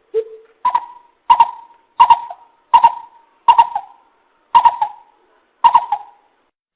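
Greater coucal calling: a series of about eight short hoots, roughly one every 0.7 s, the first one lower and the rest a step higher and even.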